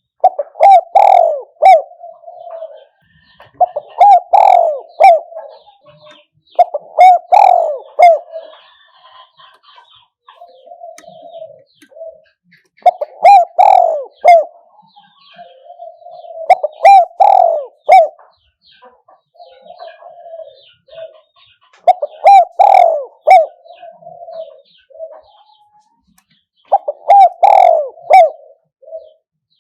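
Spotted dove cooing: a loud phrase comes every three to five seconds, with softer coos between them. This is the decoy dove's calling, used to lure wild doves in.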